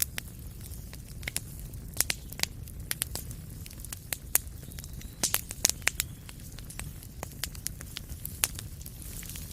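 Wood fire in a fireplace crackling: irregular sharp pops and snaps, thickest about five to six seconds in, over a steady low rumble.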